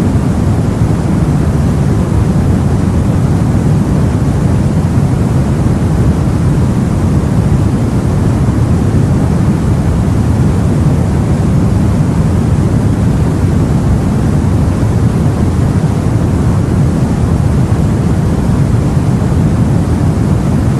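Steady, low rumbling wash of sea and wind heard aboard a boat, an even noise without any change or distinct events.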